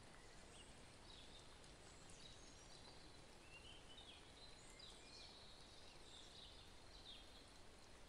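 Faint birdsong, scattered short chirps and trills, over a low steady outdoor background hiss.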